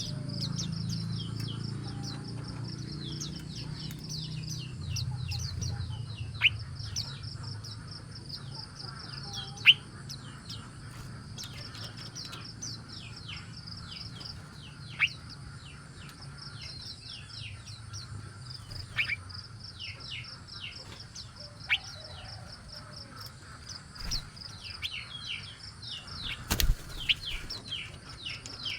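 A group of small birds chirping continuously: a rapid stream of high, short chips with louder downward-sliding calls every few seconds. A low rumble fades out over the first several seconds, and a single sharp click sounds near the end.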